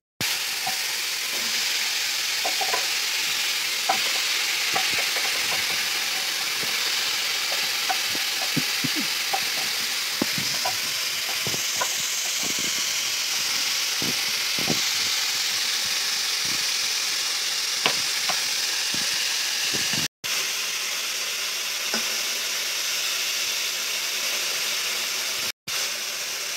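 Cut potatoes sizzling steadily as they fry in hot oil in a steel kadai, with scattered small pops and ticks. The sound cuts out briefly twice near the end.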